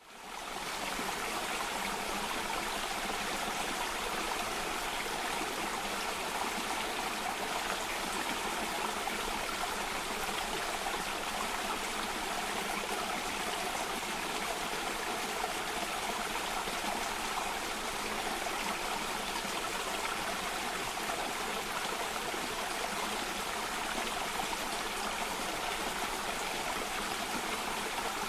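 Steady rush of running stream water tumbling over rocks, an even noise without pauses. It fades in over the first half-second.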